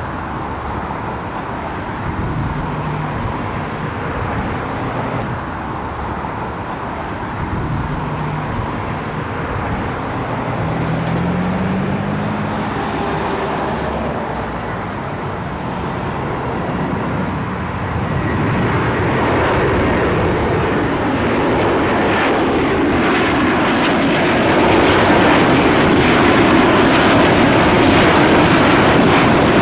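Airbus A330-200 jet engines during departure: a steady jet roar that grows louder about eighteen seconds in and again near the end.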